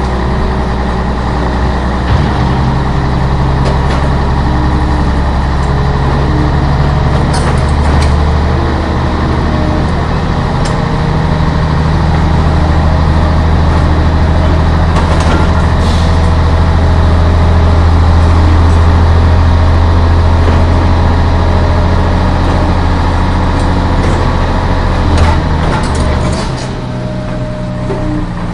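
Heavy truck engine running steadily with a deep hum, a sound effect rather than the plastic toys themselves. A few sharp clicks come along the way, and the deep part of the engine note drops away near the end.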